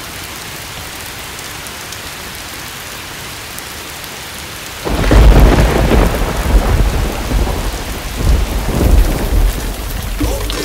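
Steady rain, then about five seconds in a loud thunderclap breaks and rolls on in rumbling swells.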